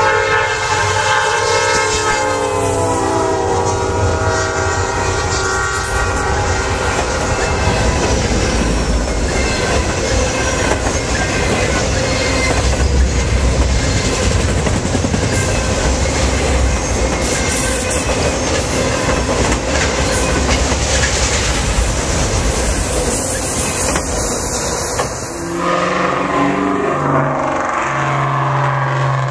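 A diesel freight locomotive's horn sounds as the train passes, its pitch dropping, then the long steady rumble and clatter of freight cars, including autorack cars, rolling by on the rails. Near the end the clatter stops and a lower steady hum takes over.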